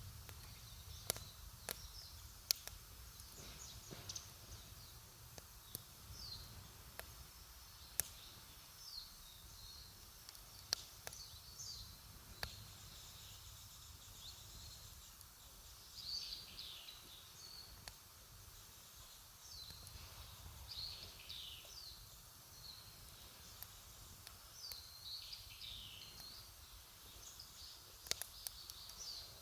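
Wood campfire crackling quietly, with irregular sharp pops scattered through, while birds call in the background with short high chirps.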